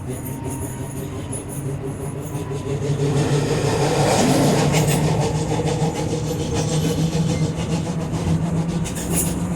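Leoliner NGT6 tram running with a steady hum and rumble that grows louder about three seconds in, with repeated knocks from a loud wheel flat spot.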